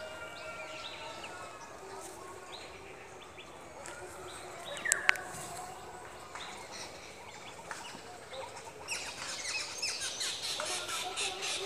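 Several songbirds chirping and calling outdoors, with one loud, sharp sound about five seconds in. From about nine seconds the chirping becomes a dense, rapid chatter.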